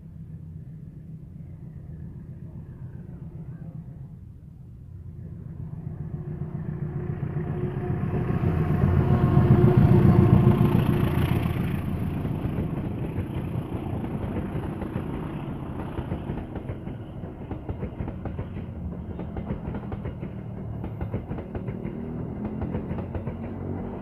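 Locomotive-hauled passenger train approaching and passing close by. A low engine hum swells to its loudest about ten seconds in as the locomotive goes by, then the coaches follow with their wheels clicking rhythmically over the rail joints.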